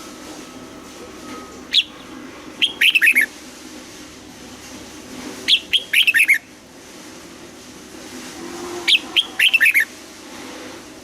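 Red-whiskered bulbul singing: three short, bright phrases of quick falling whistled notes, a few seconds apart.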